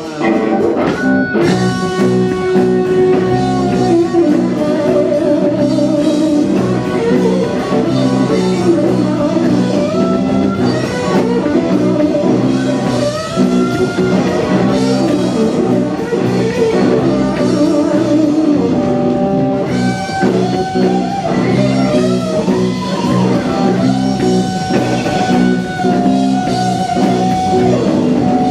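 Live band music: an electric guitar playing bending, held lead notes over a steady rock backing with drum kit.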